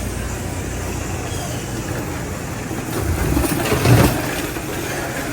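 Street traffic noise, with a vehicle passing close that swells about three seconds in, peaks near four seconds and fades.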